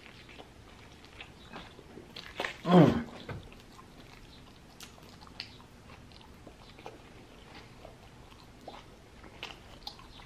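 Close-up mouth sounds of biting into and chewing a mouthful of lamb gyro in a soft pita wrap: small wet clicks and smacks. About three seconds in, a short, loud hum from the voice falls in pitch.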